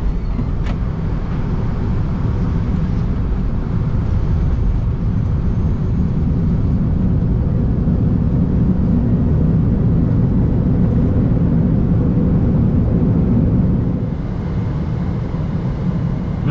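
Boeing 747-400 touching down and rolling out, heard from the flight deck: a broad, deep roar of engines and runway noise that builds over several seconds and eases off near the end, with a couple of short clicks right at the start.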